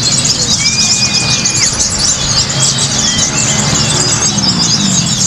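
Many caged songbirds singing at once: a dense mass of fast, high chirps and trills, with long, steady whistled notes. A low hum slides down in pitch near the end.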